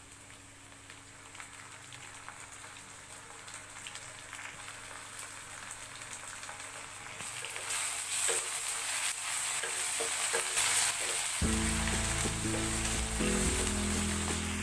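Food frying in hot oil in a pan, a sizzle that grows steadily louder. Background music comes in about three-quarters of the way through.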